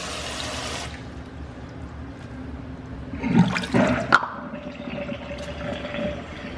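A full kitchen sink draining through a garbage disposal once the stopper is pulled: water rushing down, with loud gurgles about three to four seconds in and a faint whistling swirl as it empties.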